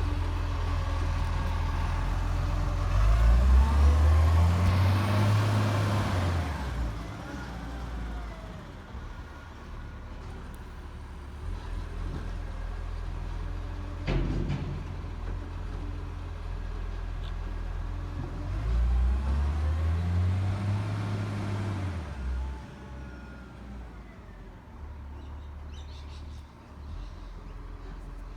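Garbage truck's diesel engine idling, revving up and back down twice, each time for about three seconds, with a single sharp knock between the two revs.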